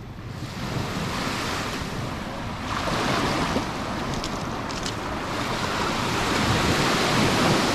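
Sea waves washing onto the beach, with wind rumbling on the microphone; the surf grows gradually louder.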